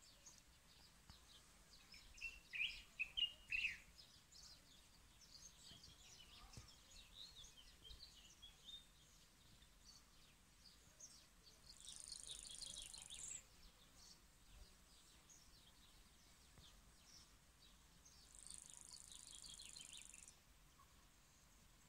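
Faint birdsong: many small birds chirping and calling, with a louder run of calls a few seconds in. Twice a high, buzzy trill holds for a second or two.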